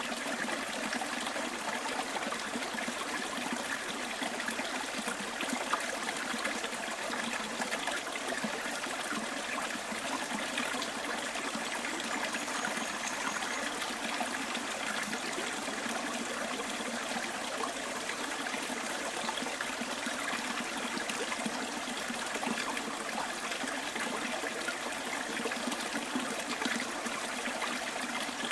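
Bush stream flowing, a steady, even trickle of running water.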